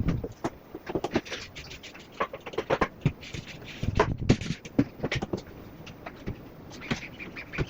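Irregular clicks, taps and knocks from hands-on window cleaning work.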